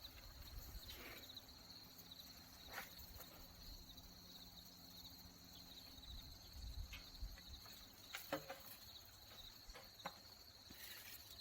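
Faint steady chirring of crickets in the garden, with a few soft scrapes and knocks scattered through it.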